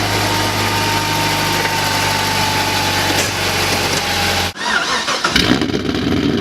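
An engine running steadily, then after a sudden break about four and a half seconds in, the Pontiac GTO's swapped LSA supercharged V8 starting and settling into an uneven cammed idle, heard from inside the cabin. Its exhaust leak at the collector is sealed, so there is no tick.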